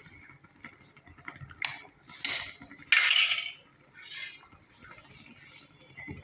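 Metal kitchen utensils clinking and scraping against cookware several times. The loudest scrape comes about three seconds in.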